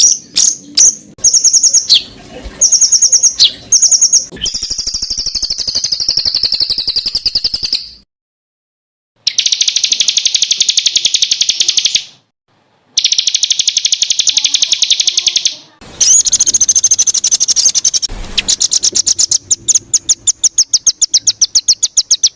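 Songbird song made of rapid-fire 'tembakan' trills: very fast runs of high repeated notes in long dense bursts, broken off abruptly twice by complete silences.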